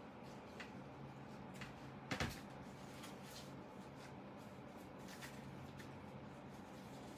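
Quiet handling sounds on a work surface: a few faint clicks and a sharper double knock about two seconds in, over a steady low hum.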